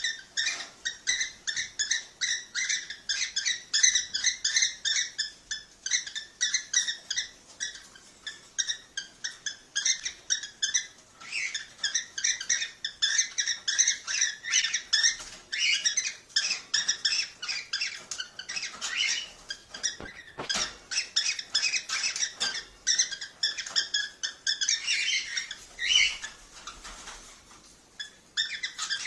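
Cockatiels chirping and calling in rapid, continuous runs of short high notes, the chatter used as a breeding-stimulation sound.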